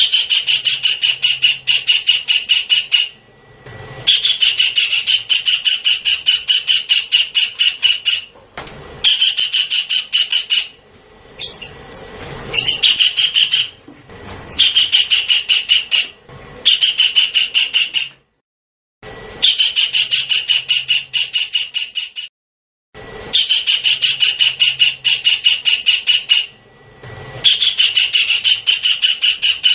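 Javan kingfisher's call played back as a bird-lure recording: harsh notes repeated rapidly, about five a second, in runs of a few seconds separated by short breaks.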